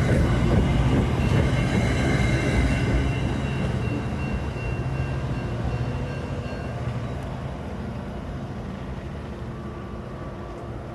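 Diesel-hauled Metra commuter train rumbling along the rails, the sound steadily fading as it moves away, with faint high steady tones that die out about seven seconds in.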